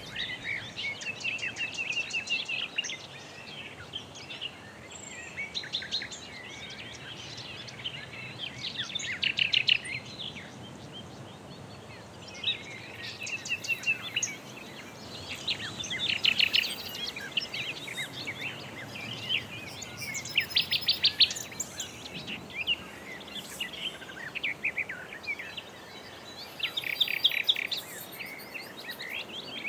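Several songbirds singing and calling at once: overlapping chirps and quick trills, over a steady low background rumble.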